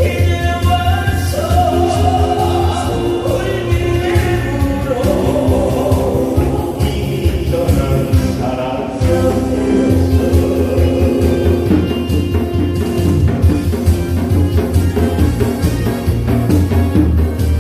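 A singer performing a Korean song live over a backing track with a steady bass beat. The voice comes in phrases with short instrumental gaps between them.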